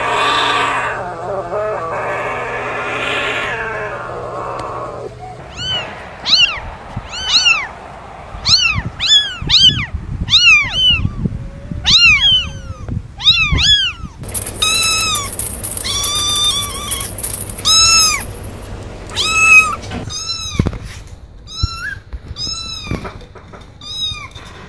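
A cat meowing over and over in short, high-pitched mews, a dozen or more, some in quick runs. A rougher, noisier sound fills the first five seconds before the mewing starts.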